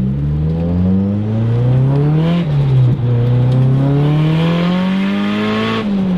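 Nissan Silvia S15 drift car's engine accelerating hard: the pitch climbs, drops sharply at a gear change about two and a half seconds in, climbs again, then falls back near the end as the throttle is lifted.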